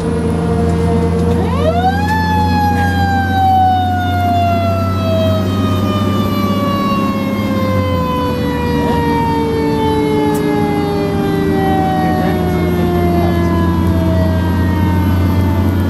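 Fire engine siren winding up quickly about two seconds in, then slowly falling in pitch over the next dozen seconds, over the steady drone of the truck's engine.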